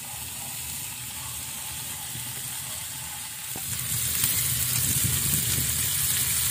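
Diced salo (pork fat) sizzling as it fries in a frying pan over a wood fire. The sizzle grows louder about four seconds in.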